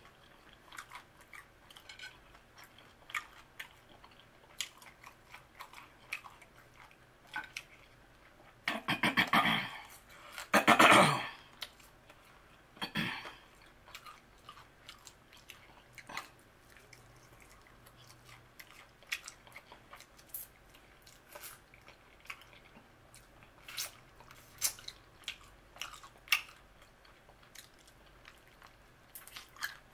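Close-up chewing and mouth sounds of someone eating sauce-covered fried chicken wings: a steady run of small clicks, with louder noisy bursts about nine, eleven and thirteen seconds in.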